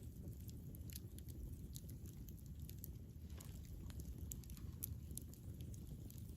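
Campfire crackling: irregular small sharp pops and snaps over a low, steady rumble of burning.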